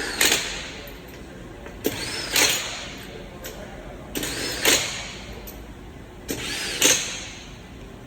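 Pneumatic impact wrench fitting wheel lug nuts: four short bursts about two seconds apart, most starting with a click, each with a hiss and a whine that rises and then falls.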